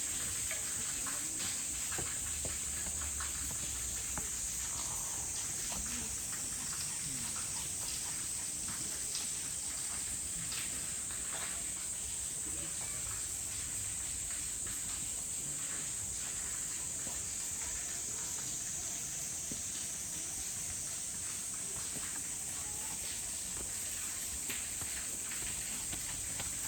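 Steady, high-pitched drone of summer cicadas, holding at one pitch throughout, over faint footsteps and scattered ticks.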